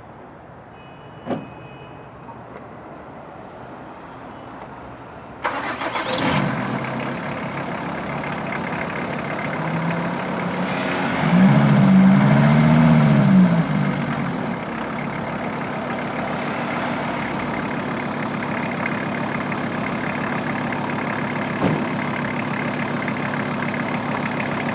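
VW Transporter T4's 2.4-litre AAB five-cylinder diesel engine: a click about a second in, then the engine starts suddenly about five seconds in, revs up and back down once, and settles into a steady idle.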